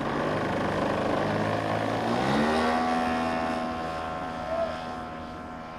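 Gasoline engine and propeller of a giant-scale radio-controlled YAK-54 plane running up from a low setting: about two seconds in the pitch rises steeply to full throttle, then holds high while the sound slowly fades as the plane moves away.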